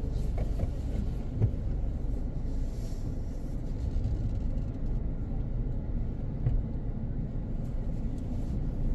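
Steady low rumble inside a car cabin, the running car's engine and road noise, with a single knock about one and a half seconds in.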